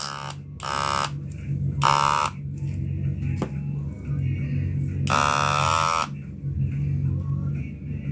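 Wahl Senior electric hair clipper running with a steady low hum, under intermittent bursts of background music with a voice. A single click about three and a half seconds in.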